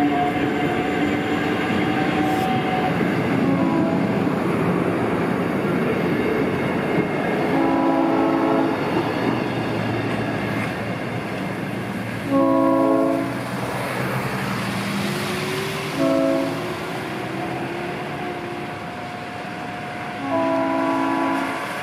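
South Shore Line electric commuter train rolling past on street-running track, its wheels rumbling and clacking and slowly fading as it moves away. The train's chord horn sounds several times, ending in two long blasts, a short one and a long one, the standard grade-crossing signal.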